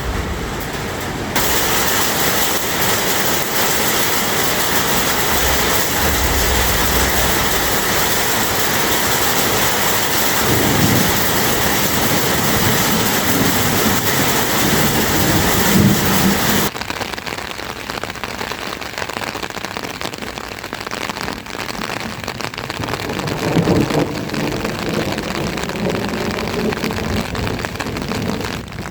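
Heavy rain: a steady hiss that jumps sharply in level about a second in and falls back abruptly just past halfway, with a few low rumbles underneath.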